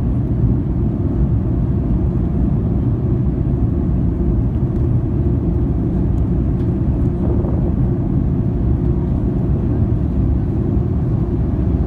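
Steady low roar of an Airbus A310-304 airliner cabin during descent: engine and airflow noise, unchanging.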